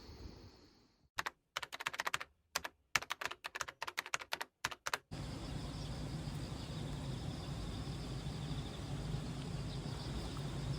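A quick, uneven run of sharp clicks like keyboard typing, with dead silence between them, lasting about four seconds. It is followed by a steady background hiss.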